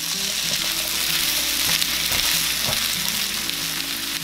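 Fish cake strips with onion and carrot sizzling in hot oil in a frying pan as a spatula stirs and tosses them over medium-low heat.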